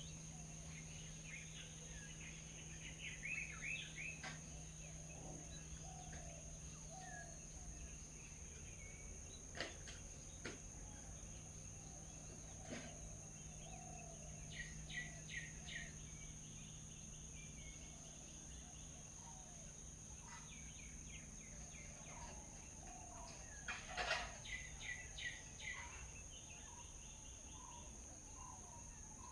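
Birds chirping in short, quick series, the loudest about three seconds in, around fifteen seconds and near twenty-four seconds, with softer low calls between. A few sharp clicks sound over a steady high-pitched tone and low hum.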